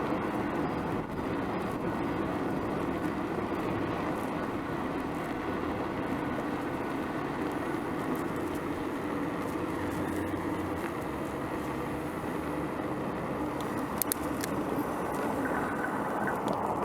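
Steady road noise heard from a moving bicycle: tyres rolling on pavement and car traffic nearby, with a few sharp clicks near the end.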